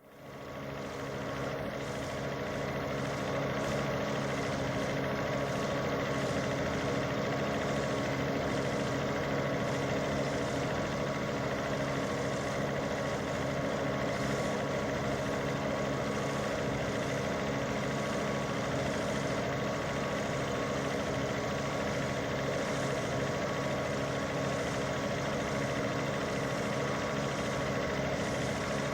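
Vehicle engine running steadily, a constant low hum that holds one pitch and fades in over the first second.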